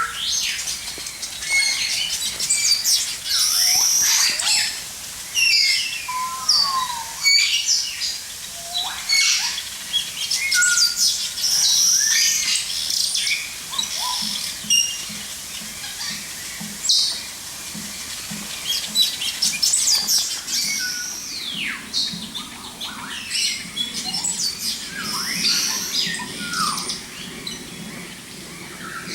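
Many aviary birds chirping and calling at once: a dense mix of quick high chirps, whistles and short sliding calls, overlapping without pause.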